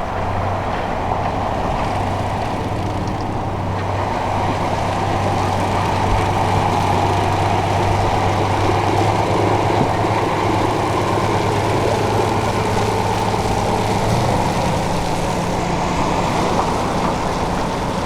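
Road sprinkler truck driving by, its engine running with a steady low hum that drops away near the end, over a constant rushing noise.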